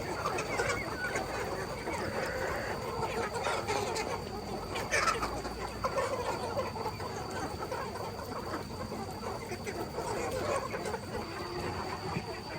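A flock of chickens clucking and calling over one another, with one sharper call about five seconds in, over a steady high-pitched whine.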